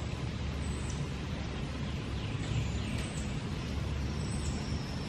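Outdoor ambience: a steady low rumble, with a high, thin bird call that drops in pitch and repeats about once a second.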